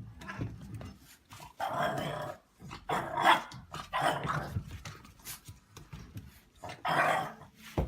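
A dog growling and grumbling in about four short, rough bursts.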